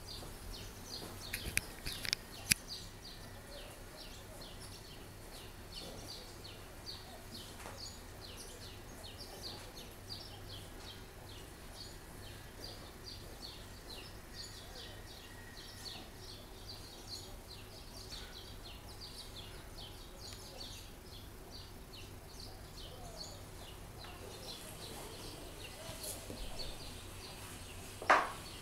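Birds chirping in fast, repeated short notes, faint over a steady low hum, with a few clicks about two seconds in and a single sharp click near the end, the loudest sound.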